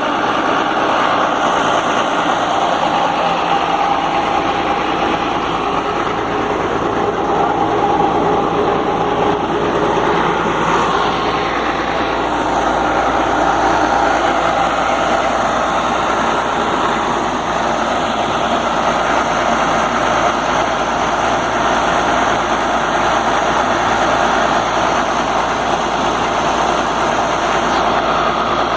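Atlas Copco XA420 portable diesel air compressor running steadily at an even engine speed.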